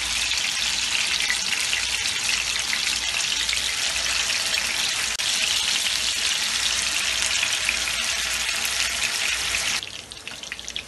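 Minced-beef galawati kababs shallow-frying in a little oil in a non-stick pan: a steady, loud sizzle that drops suddenly to a quieter sizzle near the end.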